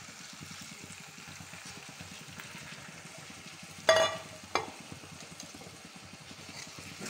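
Beef and onion masala sizzling steadily in a steel kadai. About four seconds in come two short metallic clinks of a utensil against the steel, the first one ringing briefly.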